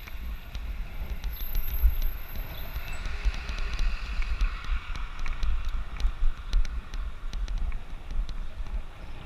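Wind buffeting the microphone of a bike-mounted action camera during a ride, a rough, gusting rumble. Short clicks and rattles run through it.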